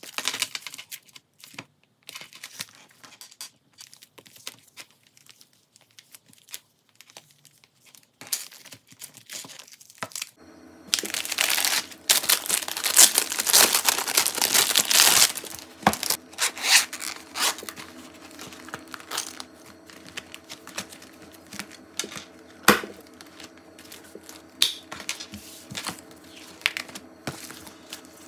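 Clear plastic binder pocket pages crinkling and rustling as they are handled in a ring binder. The first part holds only light taps and clicks; the crinkling is loudest and most continuous from about ten to fifteen seconds in, then comes in shorter bursts, over a faint steady hum.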